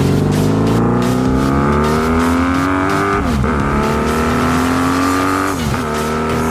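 Honda Magna V4 motorcycle engine accelerating through the gears. The pitch climbs steadily, drops sharply at an upshift a little after 3 seconds in, climbs again, and drops at a second upshift near the end before the engine settles at a steady cruise.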